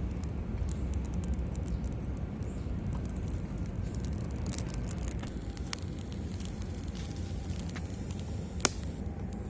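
Wood campfire crackling with scattered sharp pops, one loud pop near the end, over a steady low rumble.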